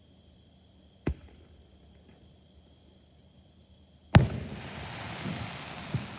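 Fireworks: a sharp bang about a second in, then a much louder aerial shell burst about four seconds in, followed by a long crackling hiss with a few smaller pops.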